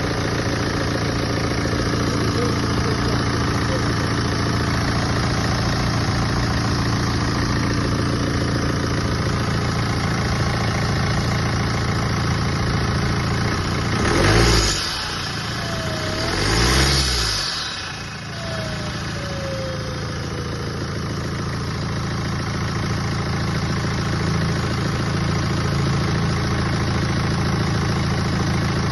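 BMW N47D20C 2.0-litre four-cylinder turbodiesel idling steadily. About halfway through it is revved briefly twice, a few seconds apart, and after each rev a falling whine follows as it settles back to idle.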